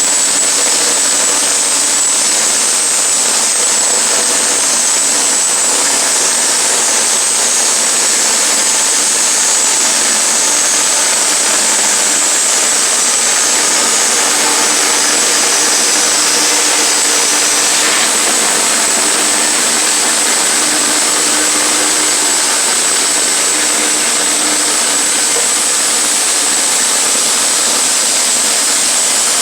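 Sawmill running steadily while milling a pine log into 1x4 boards: a loud, unbroken mechanical noise with a high steady whine.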